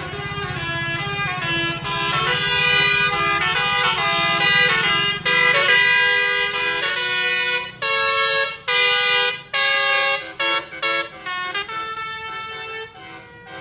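Tractor horns sounding: a horn tune of stepped notes, then from about eight seconds a run of short, sharp toots, over the low running of tractor engines.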